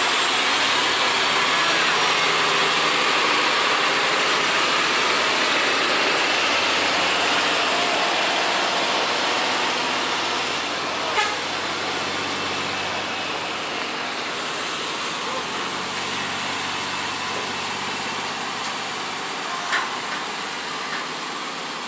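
Heavy truck traffic: engines running under a loud, steady wash of road and engine noise that eases slightly about halfway through, with two brief clicks.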